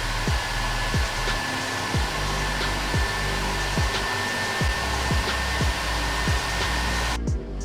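A steady, loud rushing hiss like blown air, with a thin high whistle in it, that cuts off suddenly near the end. Under it runs background music with a steady thumping beat.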